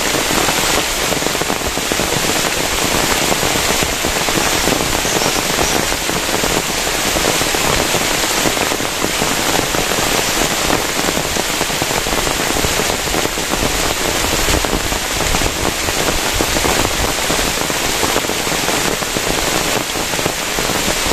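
Heavy rain falling steadily, a dense, even hiss of countless drops hitting a surface.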